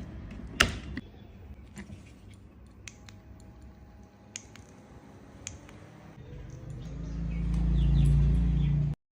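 Small plastic clicks and knocks as a mini electric fan is handled, one loud knock early on. Then a low hum and rumble builds up over a couple of seconds as the fan runs, and it cuts off suddenly near the end.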